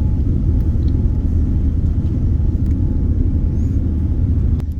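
Steady low rumble of a jet airliner's engines and airframe heard from inside the passenger cabin, with a single click near the end.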